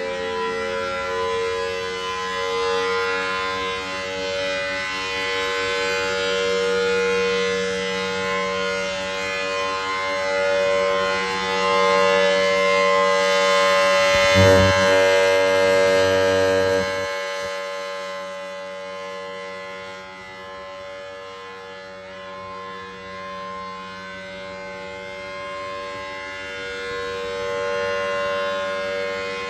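Large outdoor warning siren, the tornado-siren type, sounding a steady multi-note tone that swells and fades. A brief low thump and rumble comes about halfway through, after which the siren is quieter.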